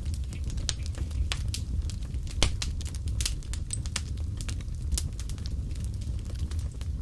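Wood fire crackling: irregular sharp pops and snaps, one louder pop about two and a half seconds in, over a steady low rumble of the burning fire.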